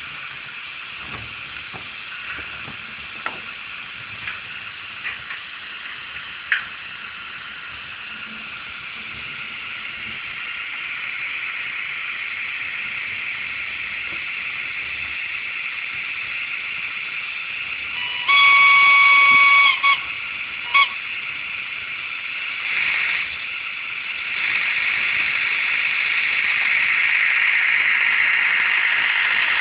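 LokSound 3.5 sound decoder in a Roco Ce 6/8 II Crocodile model electric locomotive playing its running sound through a small speaker: a steady electric drone with a few clicks in the first seconds. About 18 s in the loco sounds a long horn blast, then a short toot, then a brief hiss, and the running sound grows louder near the end.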